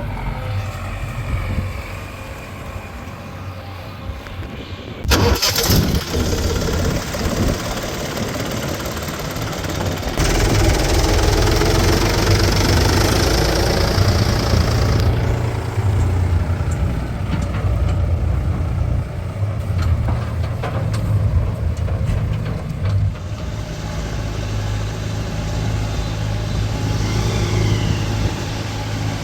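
Diesel engine of a JCB 3DX backhoe loader running under load as it works, with a sudden loud clatter about five seconds in and a louder, fuller stretch from about ten to fifteen seconds.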